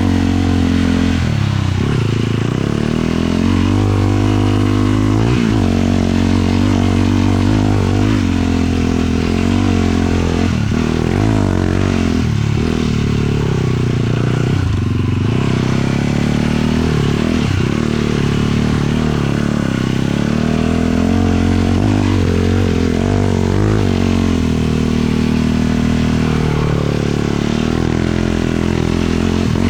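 450cc single-cylinder four-stroke sport quad engine under way, its pitch climbing and dropping again every second or two as the throttle is worked.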